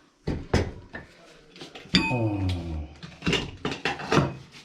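Metal cookware clattering: a few knocks, then one sharp clank about two seconds in that rings briefly, with more clatter near the end.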